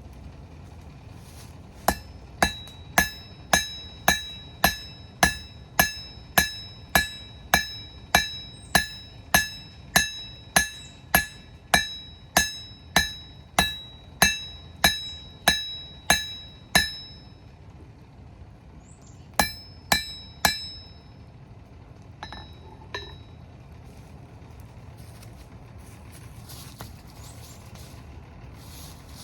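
Blacksmith's hammer forging rebar, a long, even run of ringing metal-on-metal blows at about two a second. After a short pause come three more blows, then a couple of light taps.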